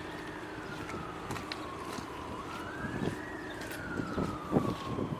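Emergency-vehicle siren wailing, its pitch slowly rising and falling about every three seconds, with a couple of soft thumps around the middle.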